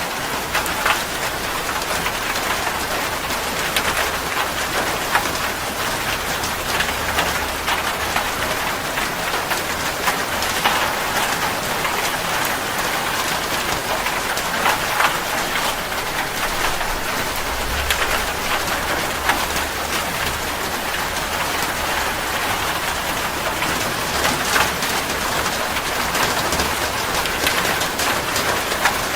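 Steady heavy rain falling on surfaces, a dense hiss dotted with countless individual drop splashes and ticks.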